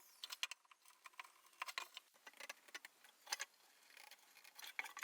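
Faint, irregular light ticks and short scratches of a marking gauge being run along the wooden box's corners, scoring the lines for the splines.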